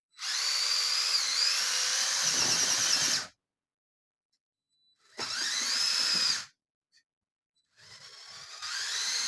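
Electric motors and gear train of a Lego Technic trial truck whirring in three runs. The first lasts about three seconds, then a short one, then a third that builds up near the end. Each run has a high whine that rises in pitch as it starts.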